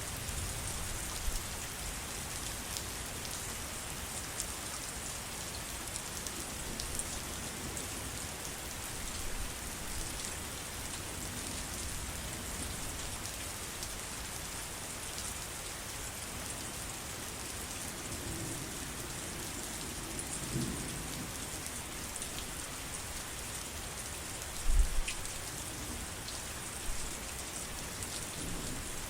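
Steady rain falling, with a low rumble about two-thirds of the way through and a short deep thump a few seconds before the end, the loudest moment.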